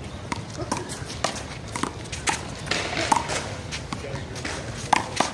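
Rubber handball being slapped by hand and smacking off the wall and pavement during a one-wall handball rally: a string of sharp, irregular smacks, a few to a second, the loudest pair near the end.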